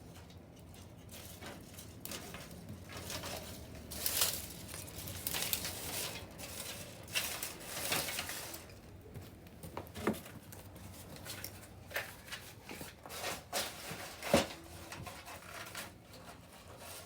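Wood bonfire crackling, with rustling stretches and irregular sharp snaps and pops. The loudest snap comes a few seconds before the end.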